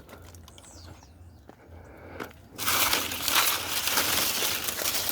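Dry branches and leaves crunching and crackling, starting suddenly and loudly about two and a half seconds in after a quieter stretch of faint clicks.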